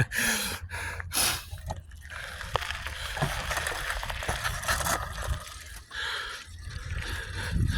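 Wind rushing over a handheld phone's microphone, with low road rumble, while riding a bicycle down a road.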